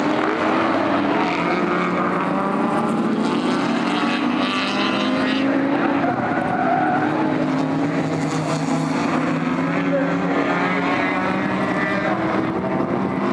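Historic touring car racing engines running hard at a steady level, with several engine notes overlapping and rising and falling in pitch as the cars change speed.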